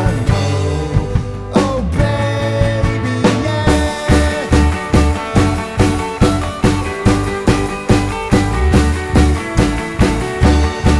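Rock band playing, with guitar and bass. Held notes and bends open the passage, then a steady drum beat comes in about four seconds in.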